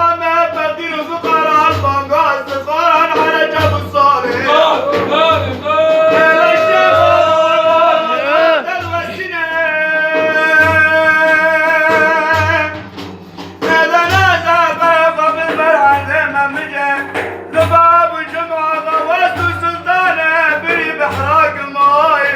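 A male voice sings madih, Islamic devotional praise, in a long, wavering, ornamented melody. It is accompanied by low frame-drum beats about once a second.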